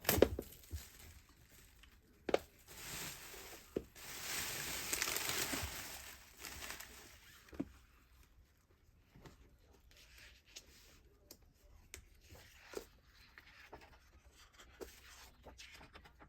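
Packaging being torn open and crinkled by hand: a short rip, then a longer tearing rustle about four seconds in, followed by scattered light clicks and taps of handling.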